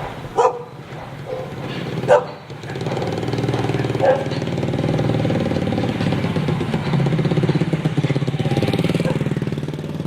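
Two short, sharp sounds in the first two seconds, then a small motorcycle engine starts running close by from about two and a half seconds in, steady and pulsing, rising slightly near the end.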